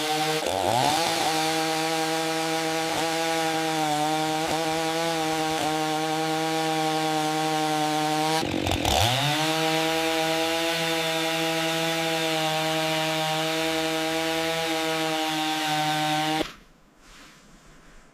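Chainsaw running steadily at high speed, its pitch dipping sharply and recovering twice, then stopping abruptly near the end.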